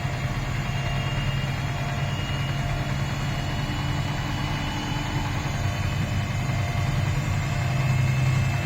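2011 Miele PW 6080 commercial washing machine running, its drum motor giving a steady hum with a faint high whine over it.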